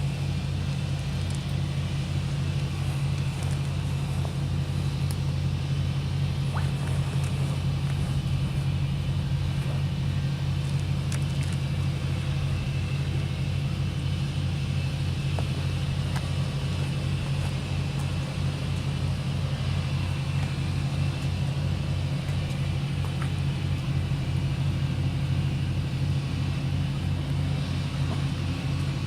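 A steady low rumble that holds an even level throughout, with a few faint ticks over it.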